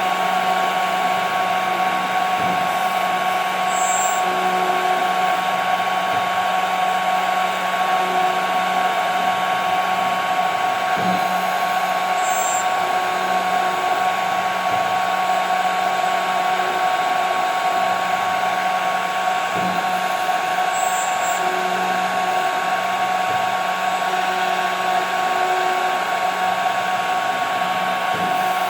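CNC router spindle running at a steady high speed, a continuous whine over hiss, as it mills 5 mm plexiglass. A short, faint high chirp repeats about every eight to nine seconds.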